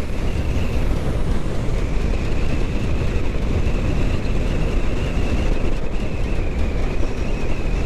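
Kawasaki Ninja 650 parallel-twin engine running at a steady cruise, mixed with heavy wind rush on the microphone while riding. A faint steady whine sits above the rumble throughout.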